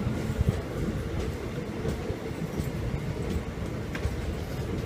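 Steady rumble of a moving express passenger train heard from inside the coach: wheels running on the track, with a few faint clicks.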